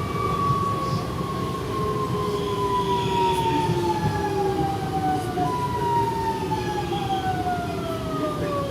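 Alstom series 8900 electric train's traction motors whining over the rumble of the car. The whine falls steadily in pitch, steps back up about halfway through and falls again, as the train slows under electric braking.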